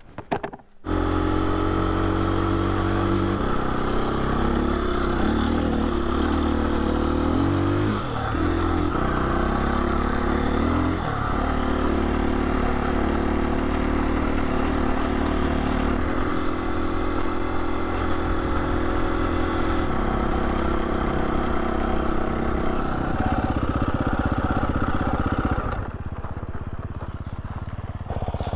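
Husqvarna 350 FE single-cylinder four-stroke dirt bike engine running under way up a trail, its pitch stepping up and down every few seconds with throttle and gear changes. It comes in about a second in and drops a little quieter near the end.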